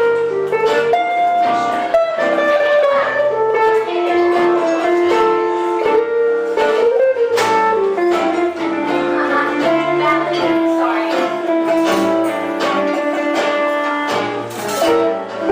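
Live band playing music driven by strummed guitars, with a held, gliding melody line carried above the strumming.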